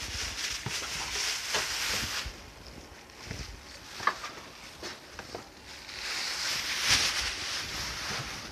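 Cardboard box and plastic packaging rustling and scraping as a tankless water heater is unpacked, in two longer stretches with scattered light clicks and knocks between them.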